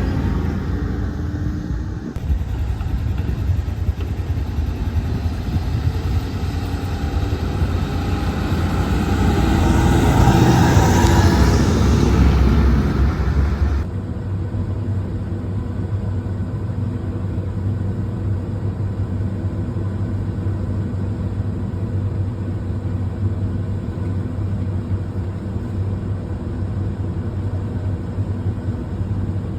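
Fendt tractor engine running under load with a manure tanker. It swells louder for a few seconds as it draws close, then changes abruptly about halfway through to a steady low drone.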